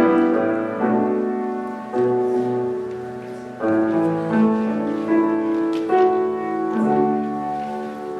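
Solo piano playing slow, sustained chords of a hymn-style arrangement, each chord struck and left to ring and fade before the next.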